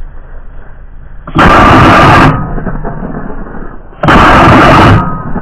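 Two very loud blasts about two and a half seconds apart. Each comes in suddenly and overloads the recording for about a second.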